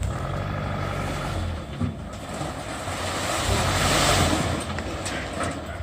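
Truck engine running, growing louder to a peak about four seconds in, then easing back.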